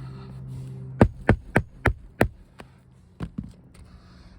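Hammer driving a roofing nail through an asphalt shingle: five quick, sharp strikes at about four a second, then two lighter taps near the end.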